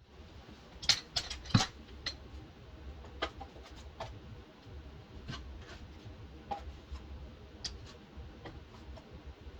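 Irregular light knocks and clicks, a few louder ones about a second and a second and a half in, over a steady low hum.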